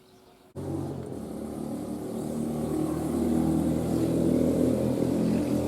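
A motor vehicle's engine running steadily, starting abruptly about half a second in and slowly growing louder.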